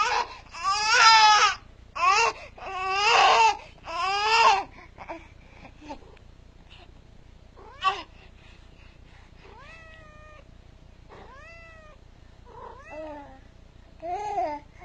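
A baby crying in loud wails for the first few seconds, then a cat meowing several times, short calls a second or two apart.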